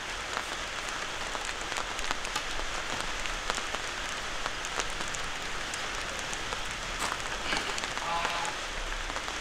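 Steady rain pattering, a dense hiss of many small drop ticks.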